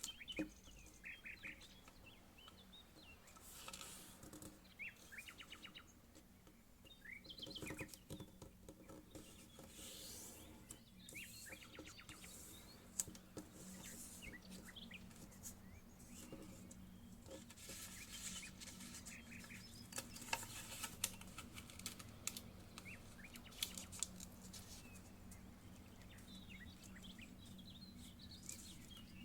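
A sheet of paper being folded and creased by hand: quiet crinkles, rustles and scrapes, with short high squeaky chirps scattered among them.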